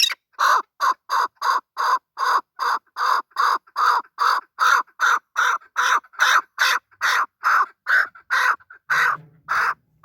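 Male chukar partridge (chakor) calling: a long, even run of short, harsh notes, about three a second, that stops just before the end.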